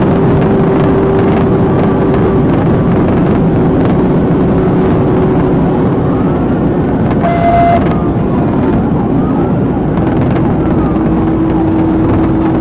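Police patrol car driving at high speed during a pursuit: loud, steady road and engine noise, with a siren wailing faintly underneath. A short beep-like tone sounds about seven seconds in.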